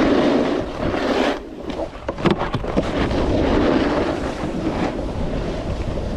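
A snowboard sliding and scraping over snow, with wind buffeting the microphone. The noise drops away briefly about a second and a half in, then comes back with a few sharp knocks.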